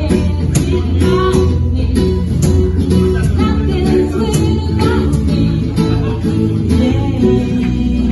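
A live band playing with guitar and a steady drum beat, with some singing.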